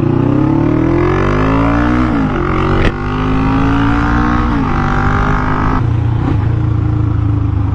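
Motorcycle engine accelerating hard away from a standstill through the gears. The revs climb, drop at an upshift about two seconds in and climb again, drop at another shift just under five seconds in, then settle to a steady lower note about six seconds in. There is a sharp click near three seconds.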